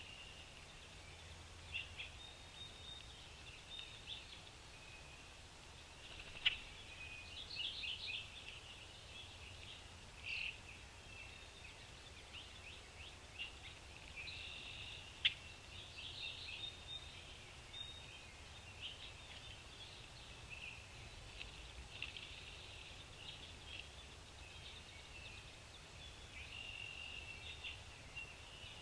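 Small birds chirping and twittering in short, repeated calls, with a steady low rumble behind them and two sharp clicks, about six seconds in and again near the middle.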